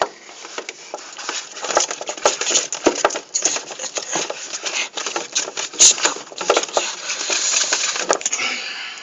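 Packaging being rustled and crinkled close to the microphone, a dense run of irregular crackles and clicks with a few sharper snaps, as a food container or bag is handled and opened.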